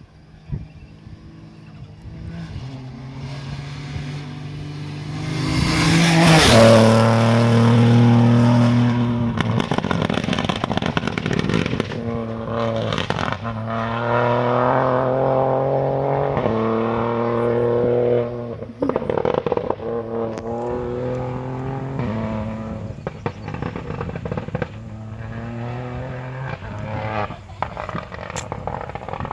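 Rally car engine at full throttle, climbing in pitch and dropping back with each upshift as the car accelerates through the gears past the microphone. It is loudest about six to nine seconds in and keeps pulling through several more gears as it moves away.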